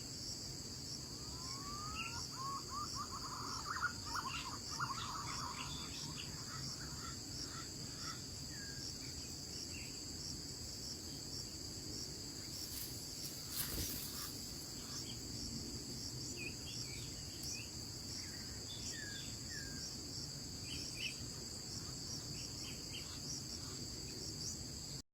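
Steady high-pitched insect chorus of crickets trilling, with scattered bird calls over it, including a warbling phrase of rising notes a few seconds in. There is a single sharp click about halfway through.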